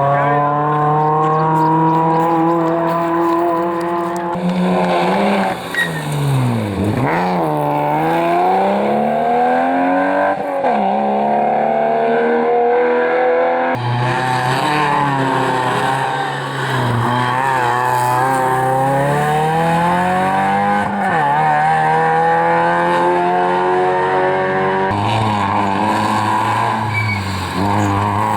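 Rally cars racing past at full attack, their engines revving hard, the pitch climbing through each gear and dropping sharply on lifts and downshifts. The sound cuts abruptly from one car to the next three times.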